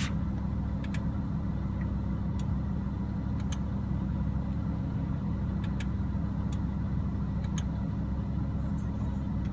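Lamborghini Huracán's V10 idling as a steady low hum, heard from inside the cabin, with a few faint clicks.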